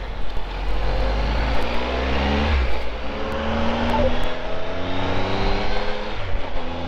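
Triumph Tiger 1200's three-cylinder engine pulling away and accelerating. The note rises and drops back three times as it changes up through the gears, under a steady rush of wind noise.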